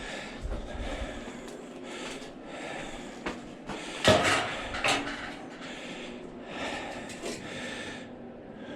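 Knocks and scraping from metal parts of an AC condenser unit being handled during teardown, irregular, with the loudest knock about four seconds in and another just after.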